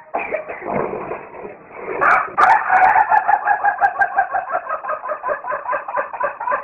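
Rooster starting to crow, then breaking off into a long run of rapid stuttering pulses, about five a second, that sound like laughing instead of a full cock-a-doodle-doo.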